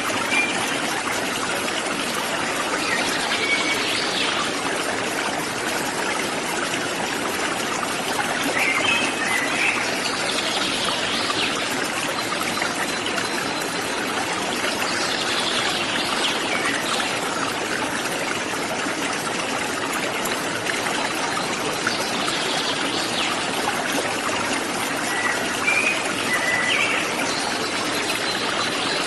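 Flowing water of a forest waterfall, a steady rush, with a bird's short call rising above it every several seconds.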